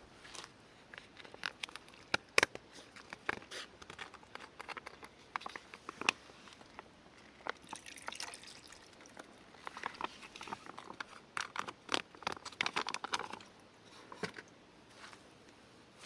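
Irregular clicks, knocks and light clatter of small objects being handled, with short bouts of rustling about eight seconds in and again between ten and thirteen seconds in.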